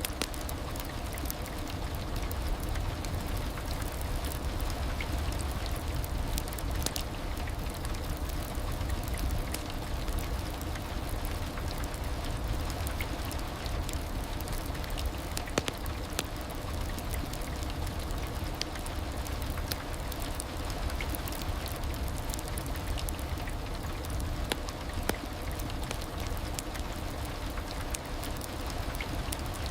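Steady heavy rain falling, a dense even hiss with scattered sharp drop hits.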